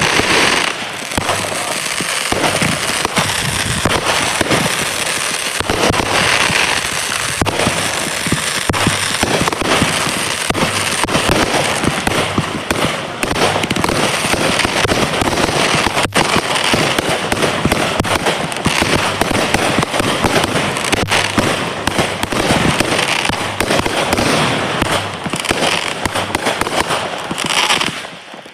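Fireworks going off in a dense, near-continuous barrage of rapid bangs and crackles, easing briefly near the end.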